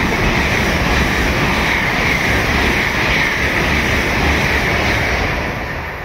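LNER Azuma high-speed train running through the station at speed: a loud, steady rush of wheels on rail and air with a low rumble beneath, fading near the end as the tail clears.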